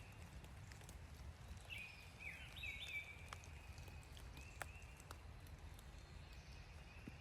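Faint outdoor ambience in light rain: thin, high bird calls come and go, with a short burst of chirpy notes about two to three seconds in, over scattered raindrop ticks and a low steady rumble.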